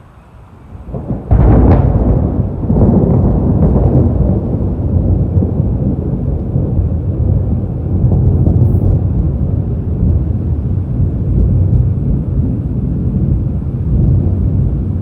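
A thunderclap breaks about a second in, sudden and loud, and rolls on into a long, deep rumble of thunder from a tropical storm.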